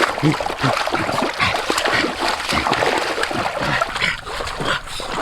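Water splashing and sloshing in a shallow stream, a rapid, irregular run of splashes with no pause.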